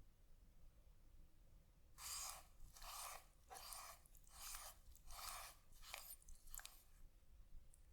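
Six faint scraping strokes, a little under one a second, starting about two seconds in, as of a hand tool rubbing back and forth across a surface.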